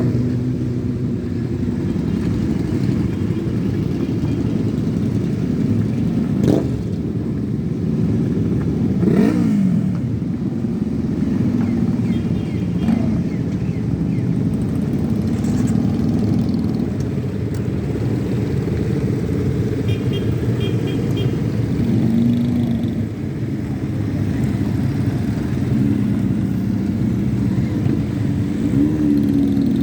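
A group of motorcycles riding past in a caravan, many engines running together with changing pitch as individual bikes go by and rev.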